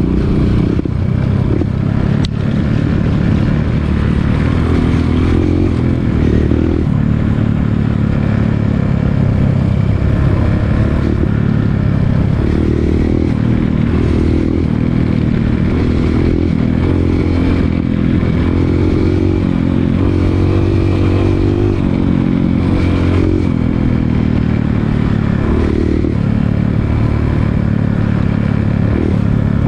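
Dirt bike engine running throughout under changing throttle, its pitch rising and falling again and again as it rides a rough trail descent.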